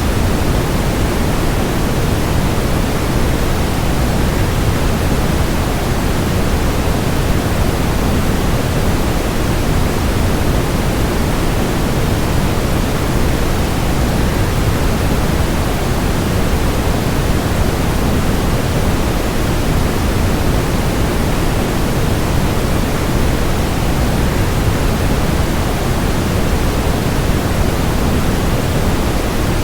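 Waterfall rushing as a steady, even noise that does not change, deep and full in the low range.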